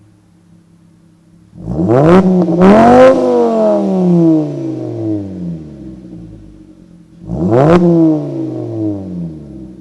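VW Rabbit MkV's 2.5-litre inline-five, breathing through an AWE cat-back exhaust and USP test pipe, idling and then revved: a quick blip about a second and a half in, a higher rev right after that falls slowly back to idle, and one more rev near the end.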